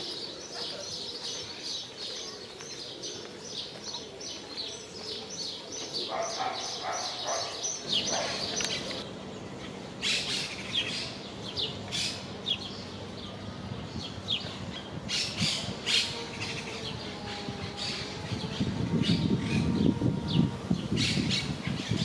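Small birds chirping in quick series of high chirps, then in scattered chirps, with a low background noise that grows louder near the end.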